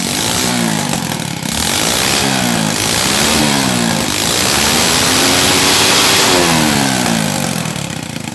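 Carbureted motorbike engine revved repeatedly, the throttle blipped up and down several times and then held high for a couple of seconds before dropping back near the end. It revs cleanly with no stumbling after being sprayed with water.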